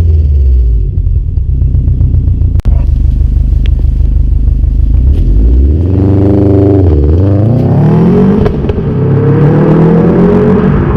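Subaru WRX STI's turbocharged 2.5-litre EJ25 flat-four running through a 3-inch turbo-back performance exhaust with a resonated centre section. It holds a low, steady note for about six seconds, with one sharp crack a few seconds in. Then the engine note drops and climbs again twice as the revs rise.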